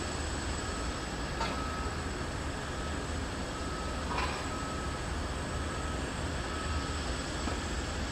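A ground vehicle's reversing alarm beeping about once a second over a steady low rumble and hiss of apron machinery, with two short clicks.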